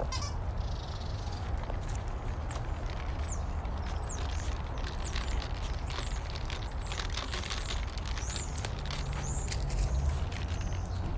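Small birds chirping in short, high, falling notes, about one every second, over a steady low rumble and scattered light footsteps.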